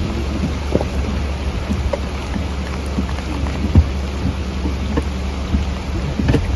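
Heavy tropical-storm rain falling steadily, with a constant low rumble under it and scattered drop ticks and small knocks throughout.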